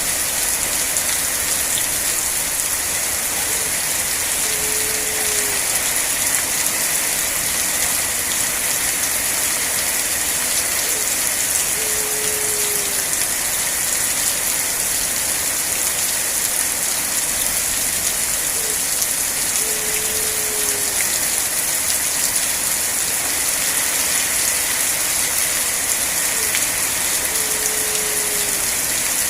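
Steady rain falling, an even hiss. A faint short falling tone comes four times, about every seven to eight seconds.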